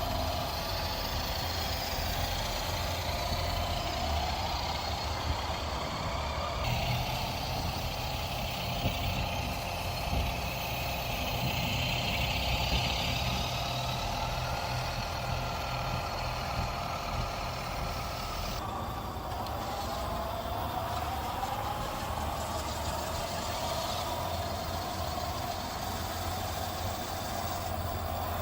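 RC Adventures Atlas 6x6 radio-controlled truck driving, its drivetrain whining in a pitch that rises and falls with speed over a low rumble. The sound changes abruptly twice.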